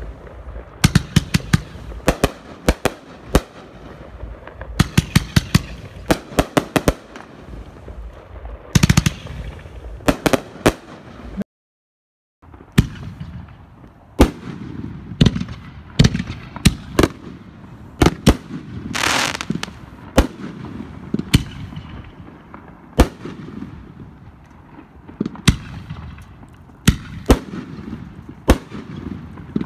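Consumer fireworks at night. First a Blueberry Pie 20-shot 500 g cake fires rapid clusters of sharp pops and bangs. After a brief break about a third of the way in, Totality 5-inch canister shells go off with single sharp bangs about once a second, with a short hiss about two-thirds in.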